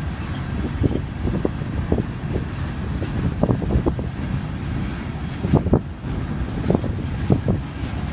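Norfolk Southern freight train rolling past: a steady low rumble with irregular knocks and clanks from the cars and wheels, with wind buffeting the microphone.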